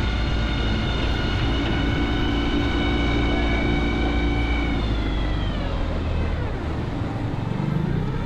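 A motorboat's engine running steadily, then throttling down about five seconds in, its pitch sliding lower; wind rumble on the microphone underneath.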